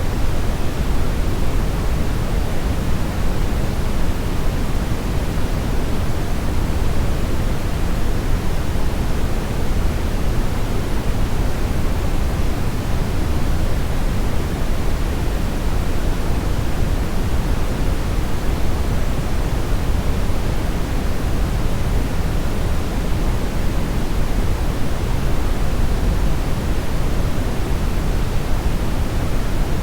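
Steady brownish noise: an even, unbroken rush weighted heavily toward the low end, with no changes or events.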